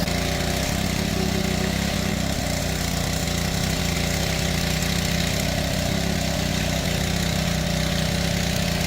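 A small engine running steadily at constant speed, with an even, unchanging hum.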